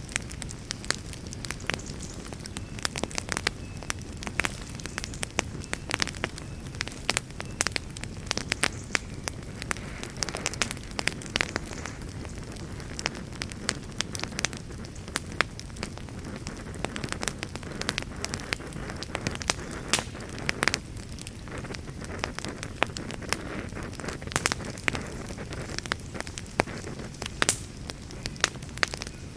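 Campfire burning with a steady low rumble of flame and frequent sharp, irregular crackles and pops from the burning wood.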